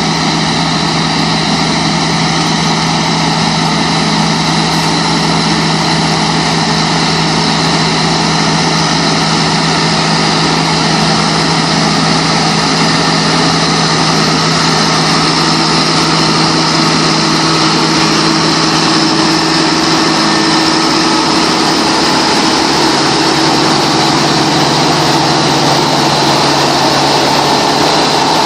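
Double L four-row potato harvester running steadily behind its tractor: a constant engine drone mixed with machinery noise, with a higher whine holding for several seconds in the middle stretch.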